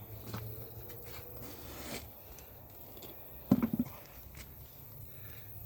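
Hand digging in garden soil: soil and plant material rustling and scraping, with light clicks and a short cluster of sharp knocks a little past halfway.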